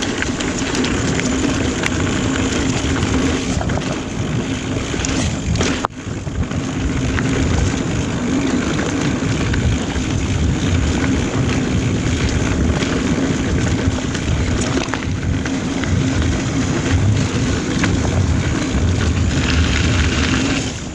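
Mountain bike descending dirt singletrack: a steady rush of wind over the camera microphone with rumbling and rattling from the tyres and bike on the trail. The noise drops out briefly about six seconds in.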